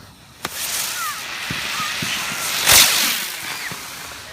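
A small firework lit on the ground goes off with a sharp crack, then hisses steadily as it burns, with one louder burst about two and a half seconds in before the hiss fades.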